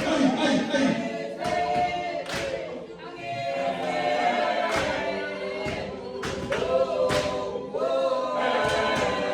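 Gwijo: a group of voices chanting a cappella in close harmony, several singers holding and shifting long notes together, with a few sharp hits scattered through.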